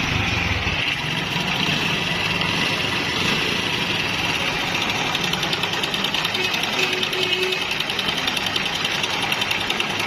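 Honda CD 70's single-cylinder four-stroke engine running with a fast, even metallic clatter from a worn timing chain. The chain's automatic adjuster has failed and an over-hard tensioner spring is fitted.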